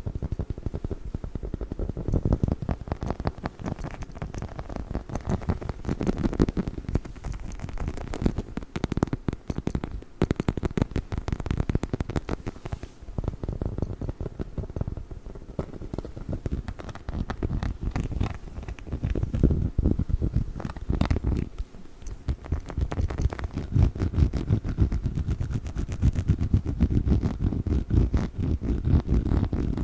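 Dog chicken toy handled right at the microphone: a dense, continuous run of rapid scratching and rubbing sounds, mostly deep in tone, with a brief let-up about two-thirds of the way through.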